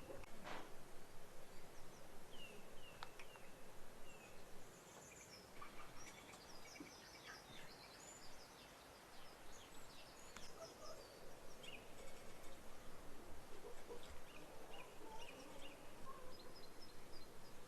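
Birds chirping outdoors: many short, high calls overlapping over a steady background hiss, with a single sharp click at the very start.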